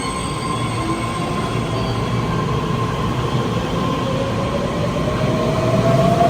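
Taiwan Railway train running by, a steady rumble with faint high tones, growing louder, and a whine that rises gently in pitch over the last two seconds.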